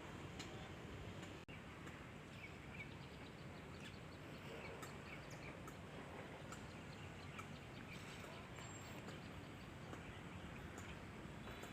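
Birds chirping in short, scattered calls over a faint steady background hiss of the countryside.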